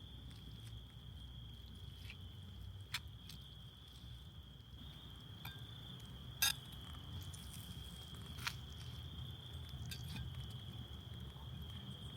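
A steady, high, single-pitched insect drone over a low rumble, broken by three sharp clicks, the loudest about six and a half seconds in.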